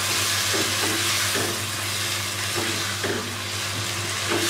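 Potato and aubergine slices sizzling in a non-stick pan of spiced masala with a little water just added, stirred and turned with a silicone spatula. The sizzle is a steady hiss, with soft scrapes of the spatula through the pieces.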